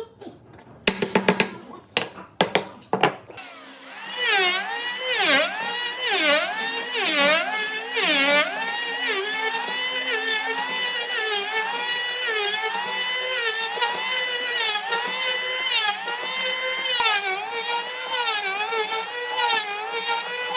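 A quick run of sharp clicks and knocks, then a power tool's motor starts whining. Its pitch dips again and again as it bites into the wood, then it runs more steadily with small wobbles under load.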